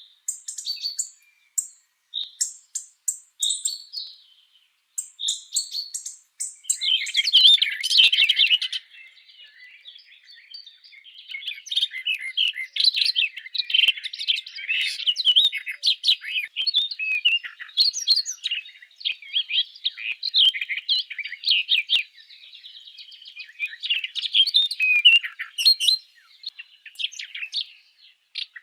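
Songbirds chirping: separate short high chirps with pauses at first, then from about seven seconds in a dense, continuous twittering of many chirps, as from several birds calling together.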